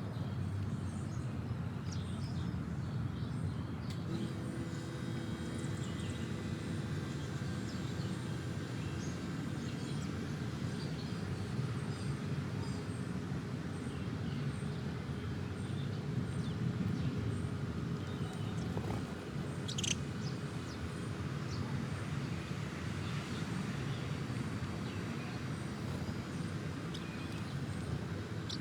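Birds chirping in short, scattered high calls over a steady low background rumble, with one sharper, louder call about twenty seconds in.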